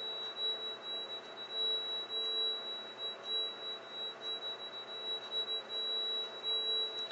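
A played-back recording of a steady high-pitched whine, with a fainter lower hum that swells and fades every second or so.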